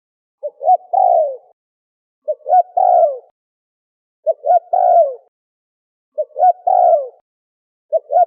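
Turtle dove cooing: a repeated phrase of two short notes and a longer falling coo, given about every two seconds, four times over, with a fifth starting near the end.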